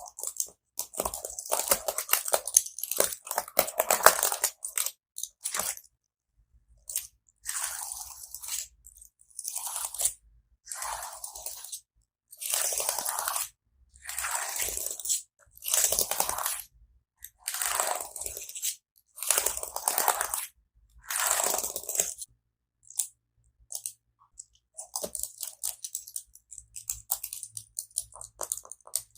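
Close-miked ASMR sounds made on a keyboard. A dense run of quick clicks comes first, then a series of separate noisy bursts of about a second each with short pauses between, with no musical notes.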